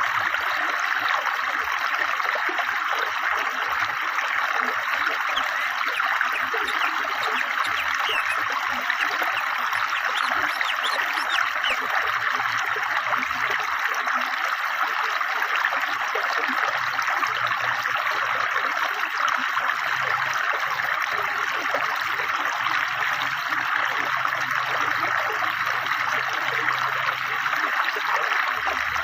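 River water flowing steadily over stones, a continuous babbling rush.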